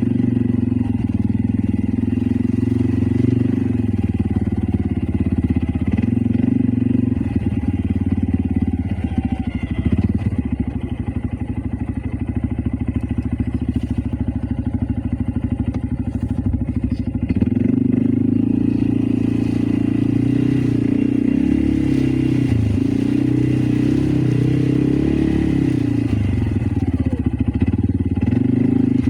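Loncin X-Wolf 550L ATV engine running while driving, its pitch rising and falling with the throttle; it runs lighter for several seconds in the middle and pulls harder again about 17 seconds in.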